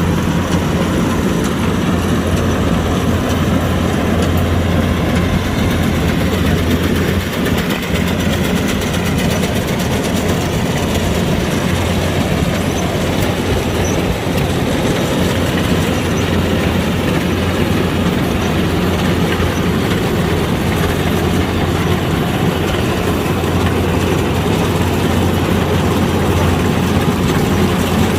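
Kubota DC-105X combine harvester running steadily, a continuous mechanical drone with a strong low hum and no change in pace.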